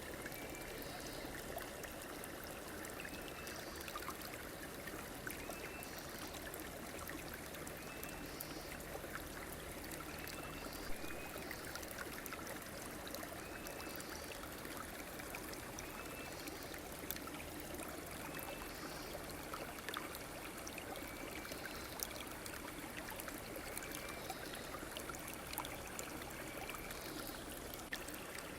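River water flowing steadily, with a short chirp that repeats about every second and a half.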